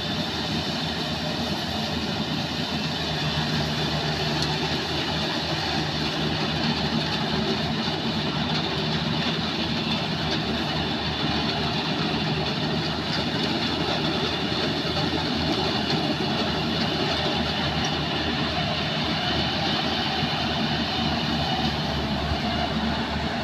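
Yanmar AW70V combine harvester's diesel engine and machinery running steadily.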